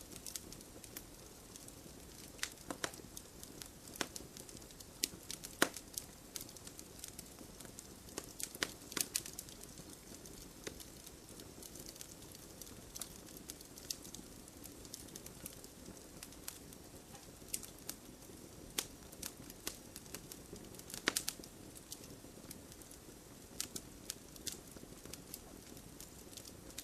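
Wood campfire crackling: irregular sharp pops and snaps over a steady low hiss, with a denser cluster of pops about three quarters of the way through.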